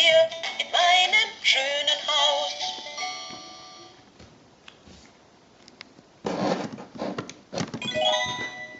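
Electronic toy sound chip playing a short synthesized song with a sung voice, dying away about three to four seconds in. After a quiet stretch with a few small clicks, a noisy rush of sound comes in about six seconds in, followed near the end by a short jingle of steady electronic notes.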